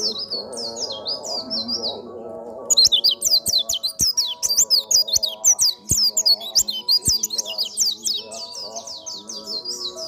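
White-eye (pleci) singing a rapid chattering song of quick high notes, becoming denser and louder about three seconds in. Background music plays underneath.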